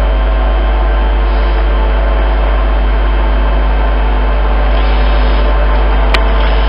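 Steady hum and rumble of a Class 380 electric multiple unit, heard on board, with several steady electrical tones from the traction equipment held level throughout. A single click sounds about six seconds in.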